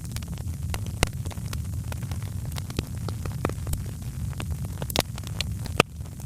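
Wood fire crackling: irregular sharp pops and snaps, several a second, over a steady low rumble of the flames.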